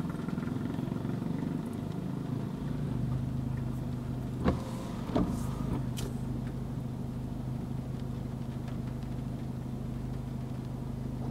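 Car engine idling steadily, heard from inside the cabin, with two sharp knocks about four and five seconds in.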